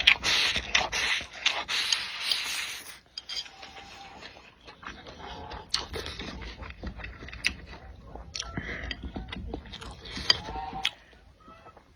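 Close-miked eating: a long breathy slurp for the first few seconds, then chewing and lip-smacking with many small wet clicks.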